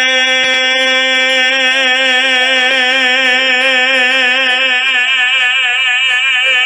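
A man singing one long held note with steady vibrato on the word "rain", the final note of the song.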